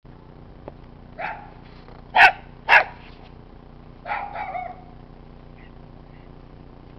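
A dog barking about four times, the two loudest barks close together near the middle, over the steady idle of a Ford 600-series tractor engine.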